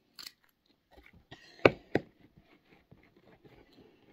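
Clear slime being worked by hand, giving small sticky clicks and crackles, with two louder pops about a second and a half to two seconds in.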